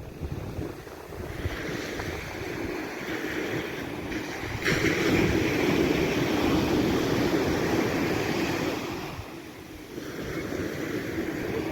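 Sea surf breaking and washing on a sandy beach in a very strong wind, with wind buffeting the microphone. The surge swells up sharply a little under halfway through, eases near the end, then builds again.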